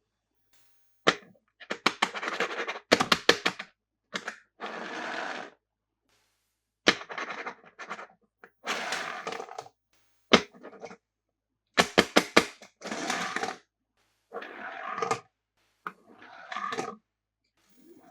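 Toy cars and their plastic and cardboard packaging handled during an unboxing: irregular sharp clicks and knocks, with bursts of rustling and scraping a second or so long.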